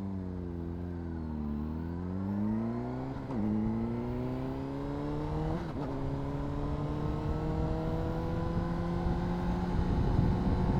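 Honda CBR600RR's inline-four engine accelerating from a stop: revs climb, fall sharply at an upshift about three seconds in and again near six seconds, then climb slowly through the next gear. Wind rumble builds underneath as speed rises.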